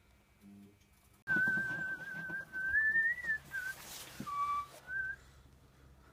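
A person whistling a short, wavering tune: one long held note that wobbles and rises, followed by a few shorter notes, one of them lower.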